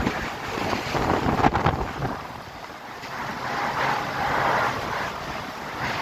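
Strong storm wind gusting hard, buffeting the microphone with a rushing roar. It eases a little about halfway through, then swells again. A brief knock sounds about a second and a half in.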